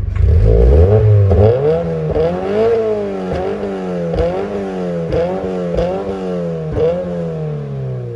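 A car engine revved repeatedly: the pitch climbs, then drops back, about eight times in quick succession, with a sharp crack at several of the drops as the throttle closes.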